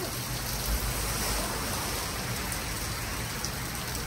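Steady rain falling on a flooded street.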